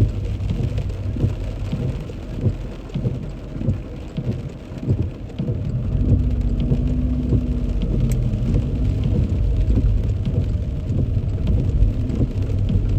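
Heavy rain pattering on a car body, with a low rumble of the moving car underneath. The rumble eases off briefly and comes back stronger about five and a half seconds in.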